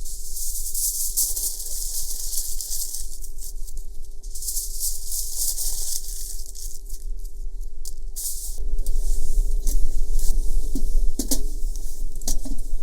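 Crackling and hissing from food cooking over a wood fire, full of small sharp ticks, over a steady low rumble. The crackling gets louder about eight and a half seconds in.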